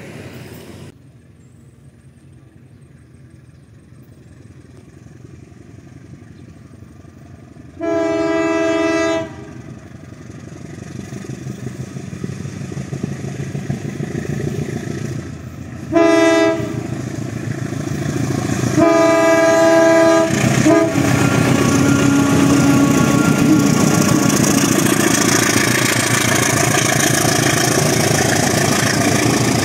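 Train horn on a diesel locomotive of an Indonesian train, sounded three times as the train approaches: a long blast, a short one, then another long one. The train then passes close by with a loud, steady rumble of wheels on rails.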